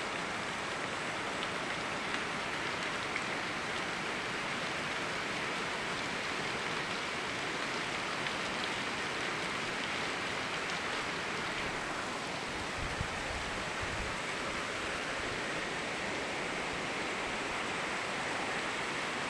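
Steady rain together with a flowing river: an even, unbroken hiss of water with no single drops standing out, and a brief low rumble about two-thirds of the way through.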